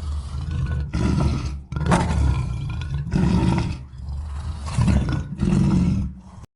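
A large animal roaring: a run of about six low, rough calls, each under two seconds, with short breaks between them.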